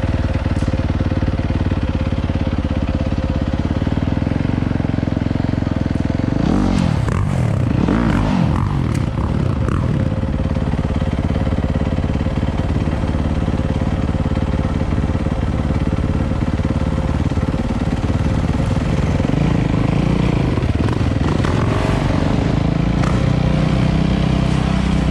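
Dirt bike engine running steadily, revved up and down several times about a quarter of the way through.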